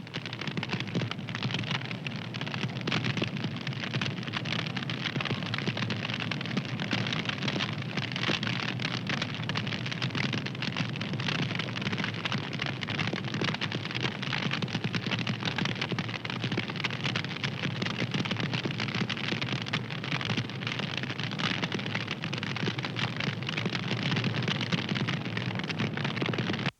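Wood fire crackling and popping, a dense, steady stream of small snaps.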